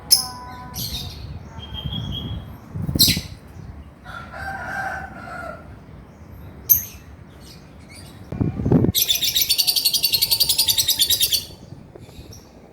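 Male lovebird calling: scattered sharp high chirps, then about nine seconds in a rapid high chattering trill lasting about two and a half seconds, the long 'ngekek' of a lovebird in full song. Two short low thuds are heard along with it.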